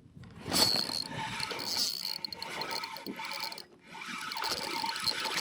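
Fishing reel running with a fast, ratchet-like clatter while a hooked speckled trout is brought in. It starts about half a second in and breaks off briefly past the middle.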